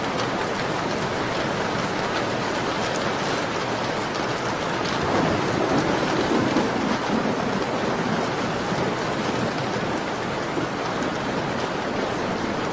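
Steady rain pattering on a window pane, mixed with the small scattered crackles of a wood fire. A low swell rises and fades about halfway through.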